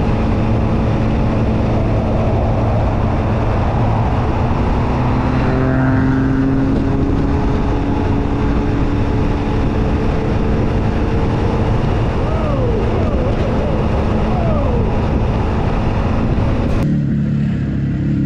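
Motorcycle riding along, engine running under a heavy, steady rush of wind noise, with a few short falling whines around the middle. Near the end it cuts to a steadier, lower engine hum.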